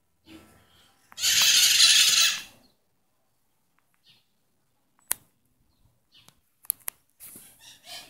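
A loud, harsh bird call lasting about a second and a half, followed later by a few short sharp clicks.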